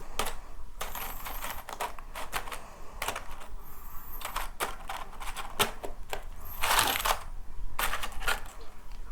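Food packaging being handled up close before eating: a string of sharp clicks and taps mixed with short bursts of rustling, the loudest rustle about seven seconds in.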